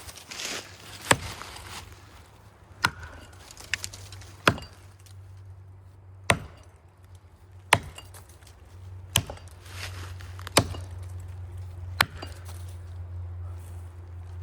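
Axe chopping into the trunk of a big maple during the felling cut: eight sharp strikes about a second and a half apart, with a low steady hum underneath that grows louder in the second half.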